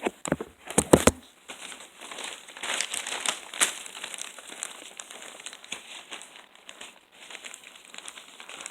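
A few sharp knocks in the first second, then steady crinkling and crackling as paper is handled.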